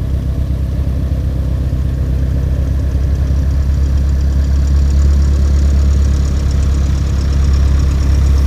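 Cessna 172's piston engine running at low power, a steady low drone with a fast even pulse that grows slightly louder over the last few seconds.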